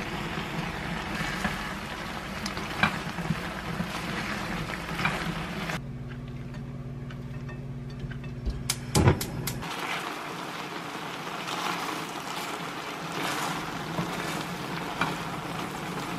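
Spicy squid and chicken stir-fry bubbling and sizzling in a pan on a gas stove, under a steady low hum, while a spatula stirs and scrapes through it. A quick cluster of sharp knocks of the utensil against the pan comes about nine seconds in, as bean sprouts are tossed in.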